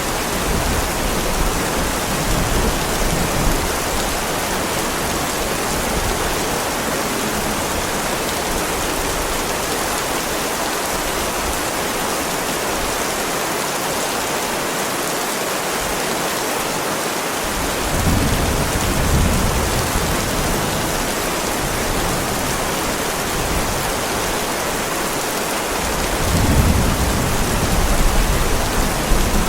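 Heavy rain falling steadily on a driveway, a dense even hiss. Two low rumbles of distant thunder swell under it, one about two-thirds of the way in and a louder one near the end.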